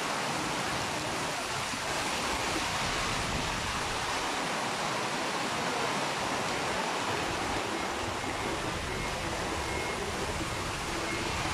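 Heavy rain and running floodwater: a steady rushing hiss with no breaks.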